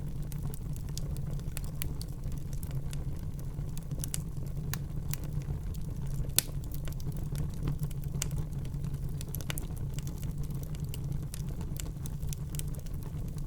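Wood fire burning in a fireplace: a steady low rumble of flames with frequent sharp crackles and pops from the burning logs, and one louder pop about halfway through.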